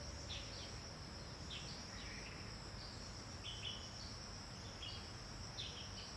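Faint woodland ambience: a steady high-pitched insect drone with short bird chirps scattered through, several of them, about once a second.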